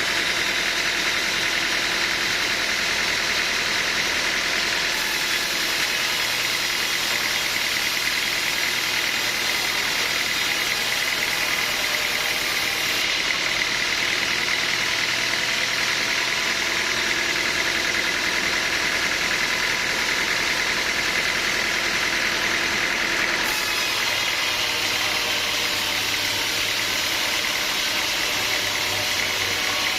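Sawmill machinery running steadily, a constant mechanical drone with a thin high whine over it.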